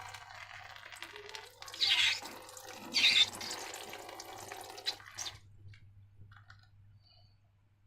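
Wet slime being handled, squelching and dripping, with two louder squelches about two and three seconds in. It stops after about five seconds, leaving only faint clicks and taps.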